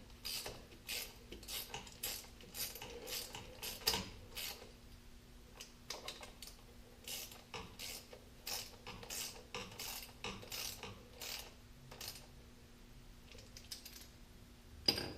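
Light, scattered metallic clicks and scrapes of hand tools and steel parts being handled during reassembly of a tractor's propshaft case, over a faint steady hum, with a sharp metal clank at the very end.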